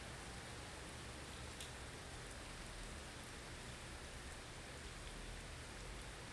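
Blizzard ambience: a steady hiss of wind-driven snow over a low rumble, with a faint click about a second and a half in.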